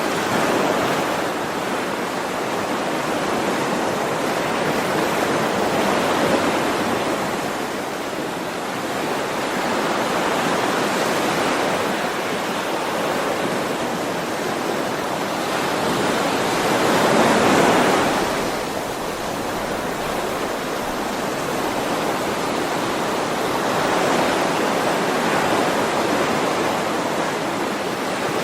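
Ocean waves washing onto a shore in a continuous rushing wash, with slow swells every few seconds; one wave breaks louder about two thirds of the way through.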